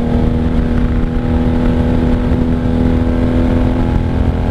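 Motorcycle engine running at a steady cruising speed, its drone holding one even pitch, with wind rumbling on the microphone.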